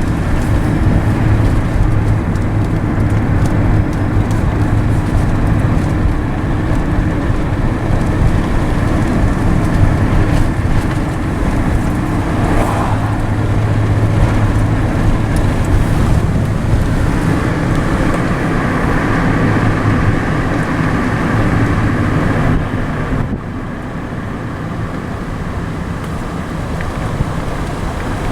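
Car engine and tyre noise of a vehicle driving steadily, a low hum that drops somewhat in level about 23 seconds in as the car eases off.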